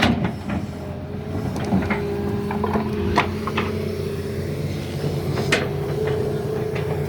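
Doosan crawler excavator's diesel engine running steadily, with sharp knocks at the start, about three seconds in and again about five and a half seconds in.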